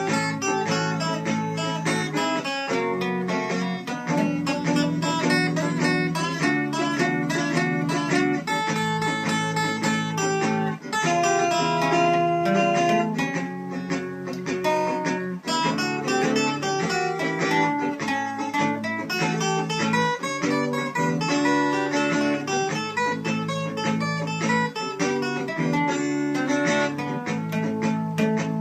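Acoustic guitar playing an instrumental passage, mixing strummed chords with picked single-note lines.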